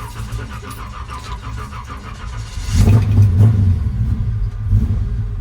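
A tuned 350 small-block Chevy V8 with aluminium heads, just started and running, then revved several times from about halfway through, each blip rising and dropping back.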